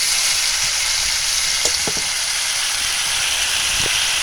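Curried bird meat sizzling steadily in a hot pot of oil, with a little water just added, and a few light pops about two seconds in and near the end.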